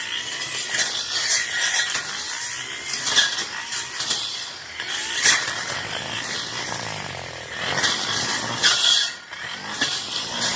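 Tanzu brush cutter running and cutting through grass and brush, its engine note rising and falling with repeated noisy surges as the blade bites into the vegetation.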